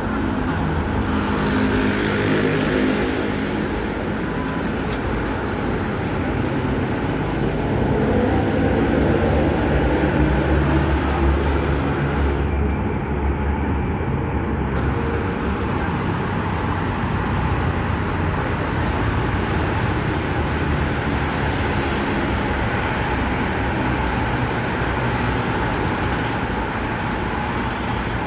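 A moving vehicle running with a steady rumble and hiss; a whine climbs in pitch about 4 to 10 seconds in, as when it picks up speed.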